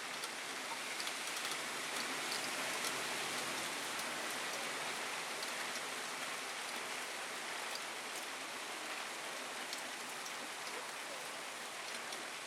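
Hail and rain pelting down in a steady hiss, with many scattered sharp ticks of hailstones striking hard surfaces.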